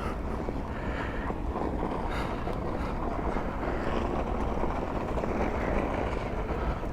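Steady rumbling noise of a self-balancing electric board being ridden, with no distinct motor tone or knocks.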